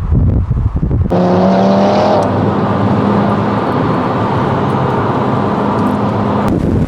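Car engine sound across cuts between shots: a low rumble, then about a second in a pitched engine note that briefly rises and settles into a steady drone, changing again abruptly near the end.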